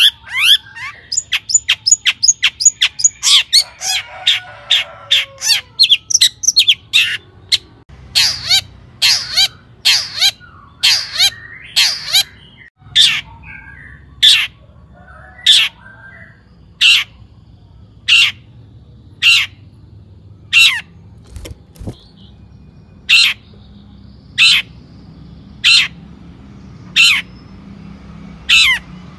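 Long-tailed shrike (cendet) calling: a fast run of sharp chattering notes at first, then loud harsh calls given singly and slowing to about one every second and a bit.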